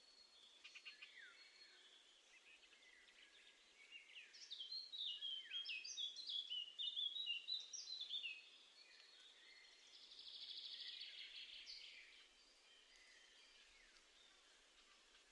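Small garden songbirds singing: a phrase of quick, high, falling notes about four seconds in, then a short rapid buzzy trill about ten seconds in, over faint outdoor hiss.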